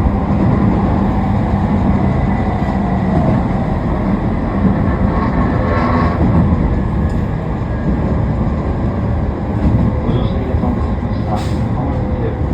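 Toei 10-300 series electric train running on the rails, heard from inside the car: a steady rumble of wheels and track with a faint steady whine above it.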